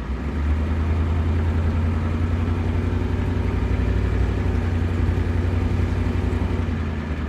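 Truck engine running as the truck drives off: a steady low engine hum that gets louder in the first second.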